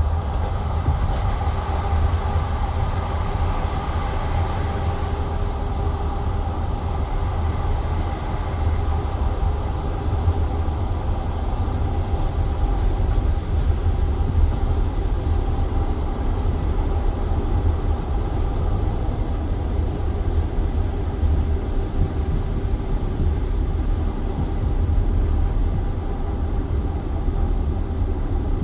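Steady low rumble of a passenger train carriage with a faint, even hum over it; no distinct wheel clicks stand out.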